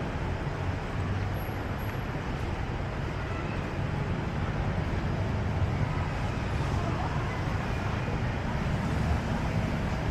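City street traffic: a steady low rumble of passing vehicles' engines and tyres, with no single event standing out.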